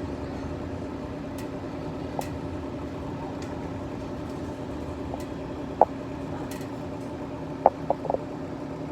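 Long freight train of hopper cars rolling past: a steady rumble with a constant hum, and a few sharp clicks, once about six seconds in and three in quick succession near the end.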